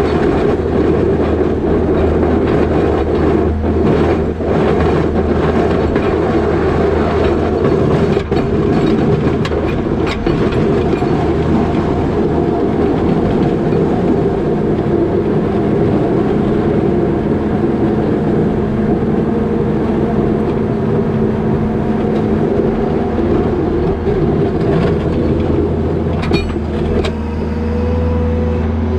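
New Holland L220 skid steer's diesel engine running hard under load, with a steady rumble and rattle and a few sharp knocks, as the machine pushes the box plow. Near the end the noise eases and a steady whine comes through.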